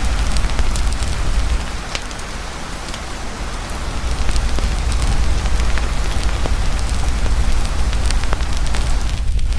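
Heavy rain falling in a steady hiss over a crackling campfire, with scattered sharp pops from the burning wood and a deep low rumble that eases for a couple of seconds and then returns.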